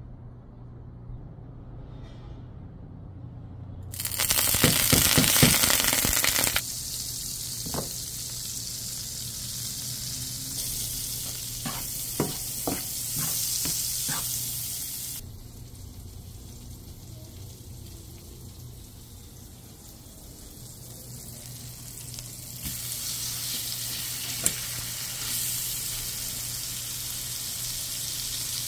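Garlic cloves and then a steak frying in hot oil in a pan, sizzling steadily. A loud surge of sizzling comes about four seconds in, there are a few sharp clicks, and a quieter stretch falls in the middle.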